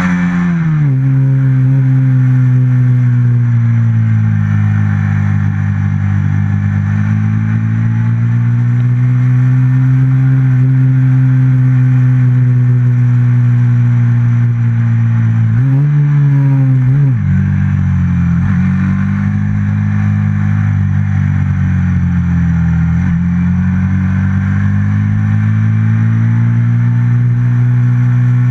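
Stock FXR150 engine of an F4 race motorcycle running hard on track, heard on board. The pitch drops at the start, then swells and sags slowly with the throttle through the lap. About sixteen seconds in it rises briefly and falls sharply, as when shifting or braking into a corner.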